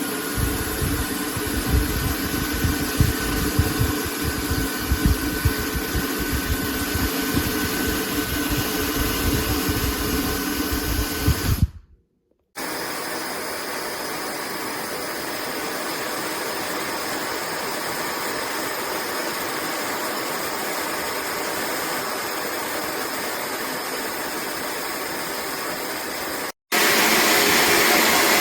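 Slopehill high-speed hair dryer blowing, in three separate takes. In the first, gusts of air buffet the microphone with a low rumble. After a sudden cut it runs as a steady rush with a faint high whine. After another cut near the end it runs louder and brighter, at a higher speed.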